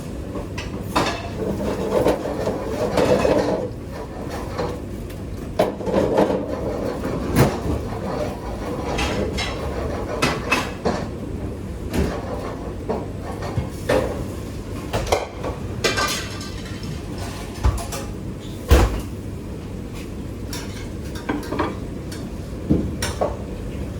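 Kitchen clatter: dishes, pots and utensils knocking and clinking at irregular moments, the loudest knock about two-thirds of the way through, over a steady low rumble.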